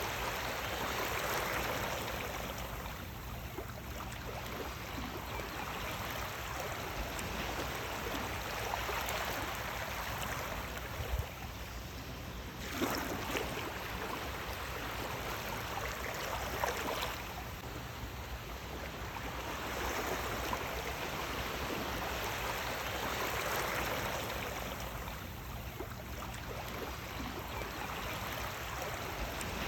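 Sea waves washing onto the shore, the wash swelling and falling back every few seconds, with a few brief sharper splashes.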